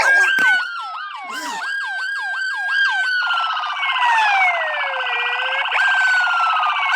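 Electronic police-style siren: long falling wails, then a quick run of short yelps about a second in, then a fast rattling warble from about three seconds in with slower falling wails over it.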